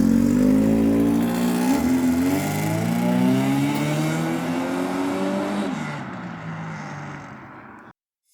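Car engine accelerating hard, revving up through several gear changes. It grows fainter as the car pulls away, then cuts off abruptly just before the end.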